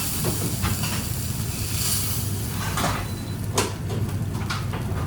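Kitchen cookware handled over a steady low hum, with a few sharp clinks and knocks, the clearest a little before halfway and just past halfway.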